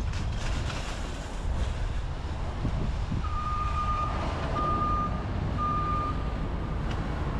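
A vehicle's reversing alarm beeping three times, about a second apart, at one steady pitch, over a steady low rumble of traffic and wind on the microphone.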